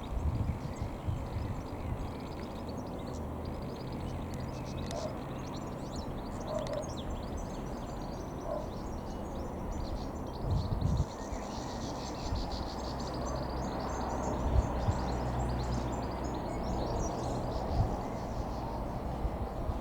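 Small birds chirping and singing outdoors over a steady low rumble, with a few dull thumps, near the start and twice later on.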